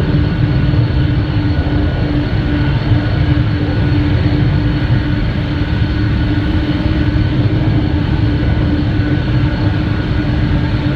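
A Boeing 777-300ER's twin GE90 turbofan engines at takeoff power: a loud, steady low rumble with a constant droning tone over it.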